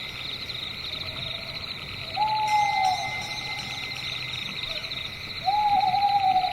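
An owl hooting twice, each hoot a drawn-out call that dips slightly in pitch, the first a little after two seconds in and the second near the end. Under it is a steady, high, pulsing chirr of night insects.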